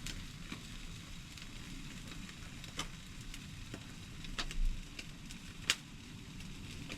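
Jerk chicken legs sizzling on a barbecue grill over an open fire, with scattered crackles and pops and a couple of louder pops in the second half.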